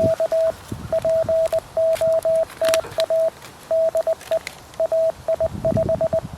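Morse code (CW) from a QRP Labs QMX transceiver: one steady beep keyed on and off in short dits and longer dahs, with faint background noise between the elements.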